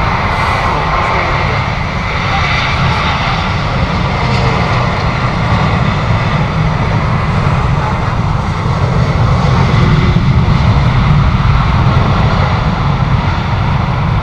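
Jet airliner engines, a steady loud noise heaviest in the low end, growing a little louder past the middle.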